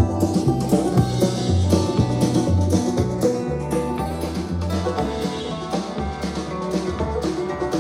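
Music with a steady beat and a bass line, played back through a portable Bluetooth speaker in a sound test.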